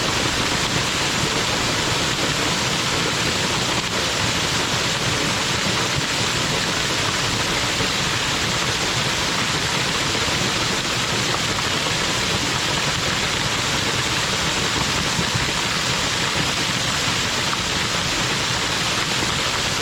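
Waterfall: a steady, unbroken rush of falling water that stays even throughout.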